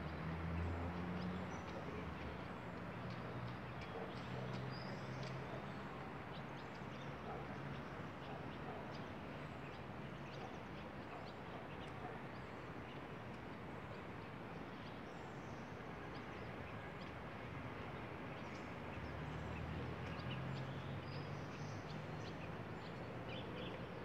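Many small birds chirping over a steady background noise, with a low hum near the start and again toward the end.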